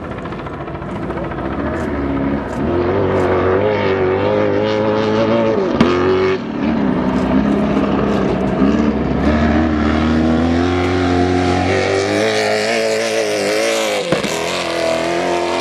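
Stadium Super Truck race-truck engines revving hard, the pitch climbing and falling repeatedly as the trucks accelerate and lift, with sharp drops in engine note about six seconds in and again near fourteen seconds.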